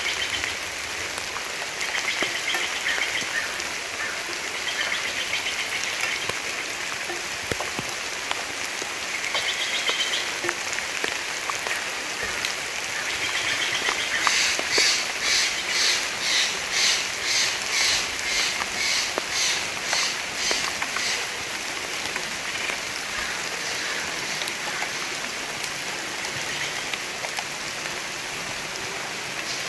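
Steady rain falling in a forest, with birds calling now and then. About halfway through comes a run of high, evenly repeated notes, about two a second, lasting some seven seconds.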